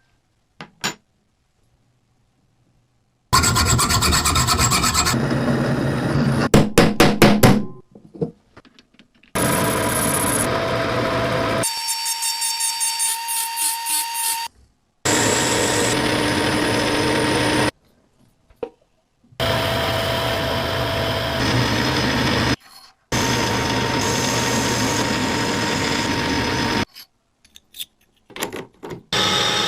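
Coffee grinder grinding beans in several separate stretches of a few seconds each, starting and stopping abruptly with short silences between them, and a few clicks near the end.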